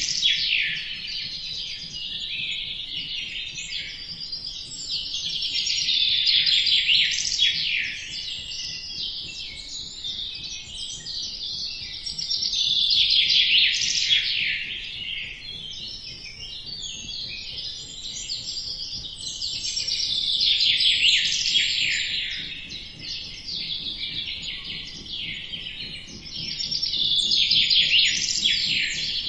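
Birds chirping in a dense chorus of rapid high notes. It swells into louder bouts about every seven seconds and eases off in between.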